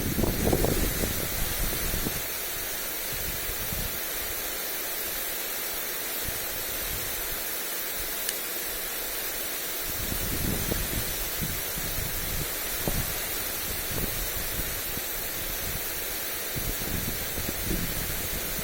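Lawn sprinkler spray hissing steadily on the grass. Gusts of wind buffet the microphone with low rumbles in the first couple of seconds and again from about ten seconds in.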